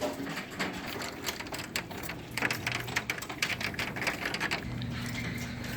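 Hailstones pelting down in a heavy hailstorm: a dense, irregular clatter of sharp ticks and cracks, thickest from about two seconds in. A faint low steady hum runs under it in the second half.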